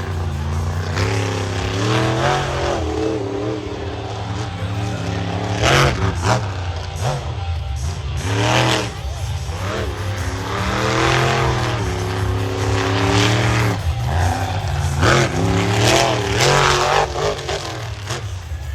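Dozer monster truck's engine revving hard, its pitch rising and falling repeatedly through a run. Several sharp bangs cut across it about six, nine, fifteen and seventeen seconds in.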